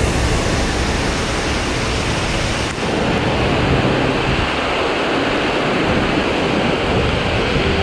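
Loud, steady rushing noise of storm wind and water, with a brief dip about three seconds in.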